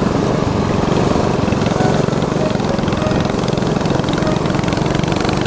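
Mini bike's small single-cylinder four-stroke engine, a Predator 212 type, running steadily.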